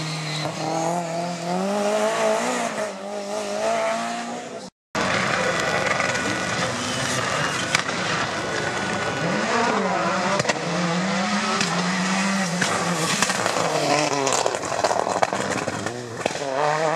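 Rally car engines being revved hard, the pitch climbing and dropping with throttle and gearchanges. The sound cuts out for a moment just under five seconds in, then engine sound starts again.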